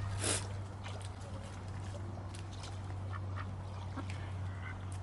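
Ducks quacking in short, scattered calls, with a brief burst of noise right at the start.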